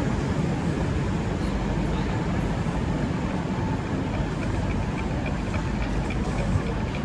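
Eurostar train in motion, running with a steady low rumble and, in the second half, faint light ticking.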